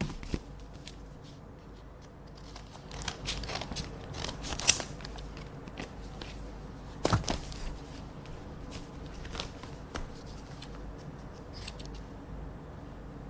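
Scissors snipping through paper envelopes, a run of sharp, irregular snips and clicks. They come thickest about three to five seconds in, and the loudest single snip falls around seven seconds.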